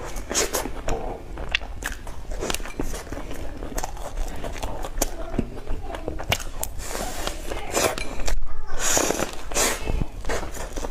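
Close-miked eating of cream puffs: bites into the pastry and wet chewing, with many short mouth clicks and smacks.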